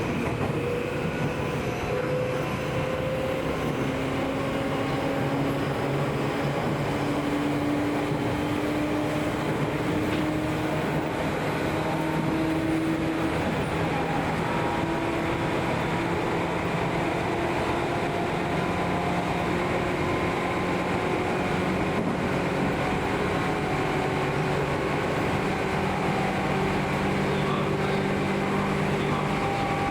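Seibu New 2000 series electric train running, its field-chopper-controlled DC traction motors and gears whining in several tones that climb slowly in pitch as the train picks up speed, over a steady rumble of wheels on rail.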